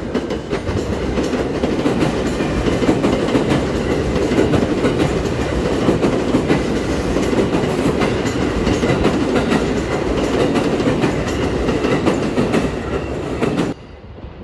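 Tokaido Shinkansen train running along the platform: a steady, loud rumble of wheels on rail with some clatter. It cuts off suddenly near the end.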